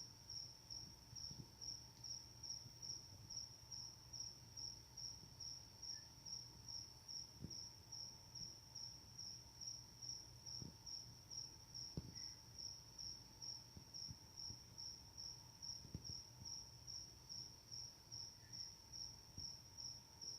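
Crickets chirping: a faint, high, steady pulsing trill, about two pulses a second, repeating evenly.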